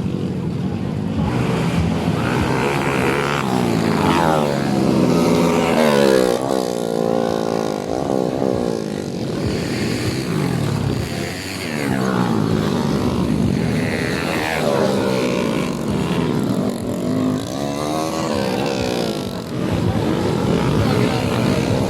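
Motocross dirt bikes racing on a flat track, their engines revving up and falling off in pitch over and over as they accelerate and ease off.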